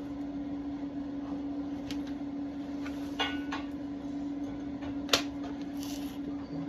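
A steady low electrical hum with a few faint clicks and light taps.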